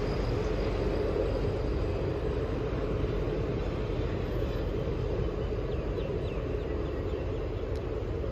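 Passenger train running along an elevated track: a steady rumble of its coaches on the rails, easing slightly toward the end.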